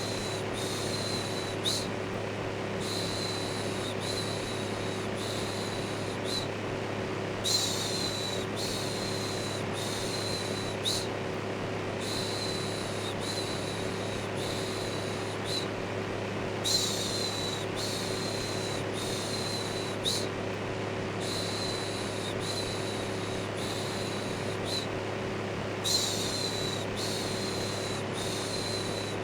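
Electric fan running with a steady hum, overlaid with a looped 'shhh' shushing sound: several shushes in a row, then a short pause, over and over.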